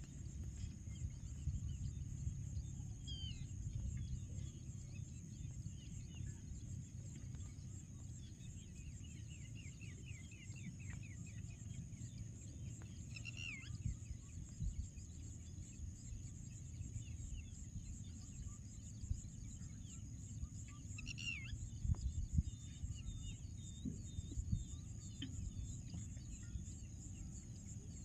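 Outdoor wildlife ambience: a steady high-pitched drone over a low rumble, with scattered bird chirps and trills, the clearest about 13 s in and about 21 s in. A few low thumps come just after 22 s.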